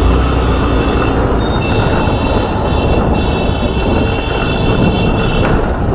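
Motorcycle riding along a road, with steady rumble and wind and road noise. A steady high-pitched tone joins in after about a second and a half and stops shortly before the end.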